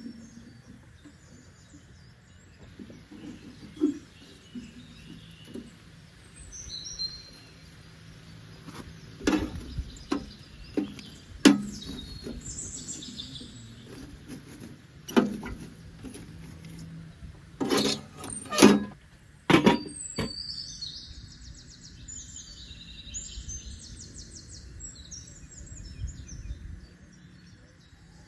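Birds chirping against steady outdoor background noise, with a scattering of sharp knocks, the loudest of them between about ten and twenty seconds in.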